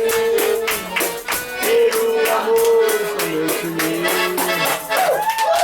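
Live band playing the instrumental close of a song, with held melody notes over a steady shaker-and-percussion beat. Near the end, voices begin to cheer.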